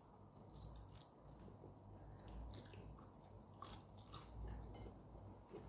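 Near silence with faint chewing and mouth sounds of someone eating by hand: a scattering of soft clicks and smacks.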